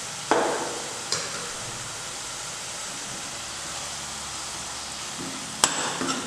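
Onion paste sizzling steadily in hot oil in a nonstick pan, with a spatula knocking against the pan a few times, once near the start, again about a second in, and a couple of times near the end as the ginger-garlic paste is stirred in.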